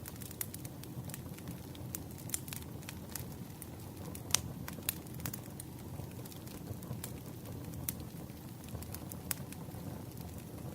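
Wood bonfire crackling: a steady low rumble of burning logs with frequent sharp pops at irregular moments. The loudest pop comes about four seconds in.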